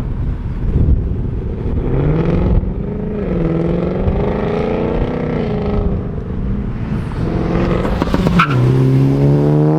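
A car engine accelerating and revving, its pitch climbing about two seconds in and easing off later. Near the end comes a sharp crack, and the engine drops to a lower pitch and climbs again, as at a gear change.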